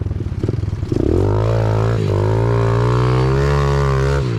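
Small four-stroke pit bike engine running at steady high revs, a low, even drone that settles in about a second in and eases off near the end.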